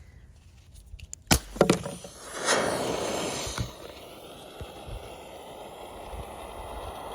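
String-pull smoke grenade set off: a few sharp clicks, then a loud hiss as it ignites about two and a half seconds in, dropping after a second to a steady fainter hiss as the smoke pours out.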